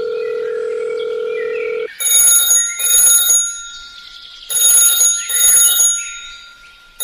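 A steady tone for about two seconds, then a bell ringing in two double rings, like an old telephone or an alarm clock.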